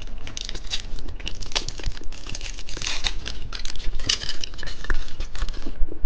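Plastic candy wrapper being crinkled and torn open, many quick sharp crackles that ease off near the end.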